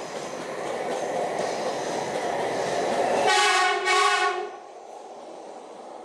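Taiwan High Speed Rail 700T trainset running in along a station platform, its rolling noise building. About three seconds in its horn sounds two short blasts close together. After the horn the noise settles to a quieter, steady rush as the cars pass.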